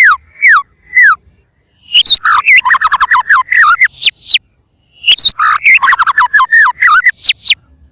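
White-rumped shama (murai batu) singing: fast runs of short, down-slurred whistled notes, several a second, in loud phrases broken by short pauses about a second in and again past four seconds.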